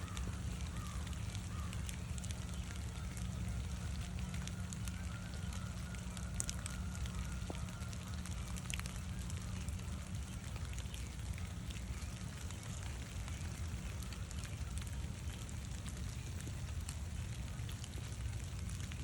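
Gentle rain falling, a steady patter of many small scattered drop ticks, over a constant low rumble of wind buffeting the microphone.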